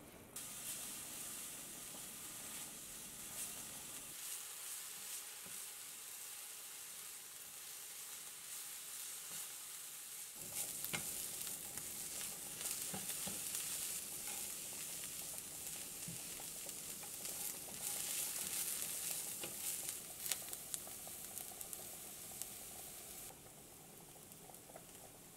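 Chopped daikon radish leaves sizzling as they are stir-fried in a frying pan, turned with a silicone spatula that ticks and scrapes against the pan. The sizzle starts a moment in and falls away near the end.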